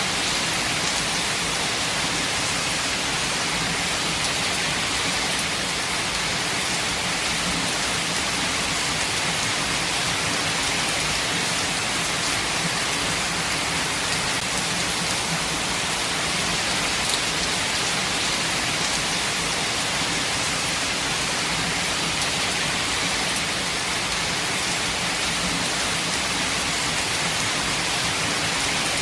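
Steady rain falling, an even, unbroken hiss that stays at the same level throughout.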